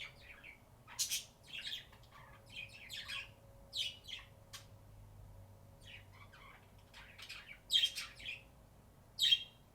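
Budgies (pet budgerigars) chirping and chattering in short scattered calls, with a couple of louder calls near the end.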